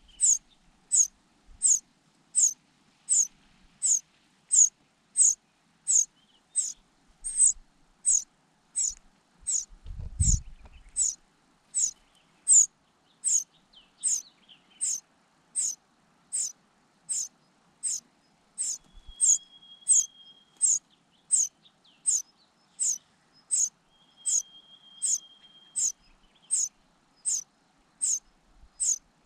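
Cuckoo chick begging for food: a long, even series of short, thin, high-pitched calls, about two a second. A low thump comes about ten seconds in.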